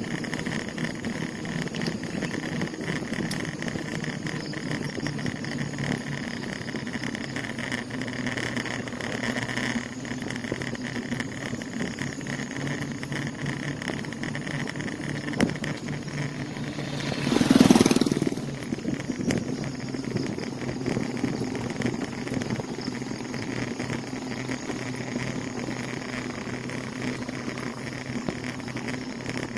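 Steady road and riding noise from a moving bicycle. About seventeen seconds in, a motor vehicle passes close by, swelling up to the loudest point and fading away within about two seconds.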